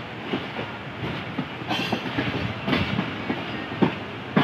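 Passenger train moving through a station, heard from beside a coach window: a steady rumble of the wheels on the track with irregular sharp clacks as they cross rail joints, the loudest near the end.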